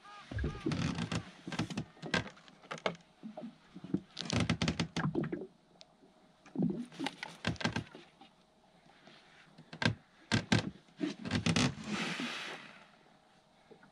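Irregular knocks, clunks and clatter of gear being handled on a small fishing boat, in clusters with short pauses between them.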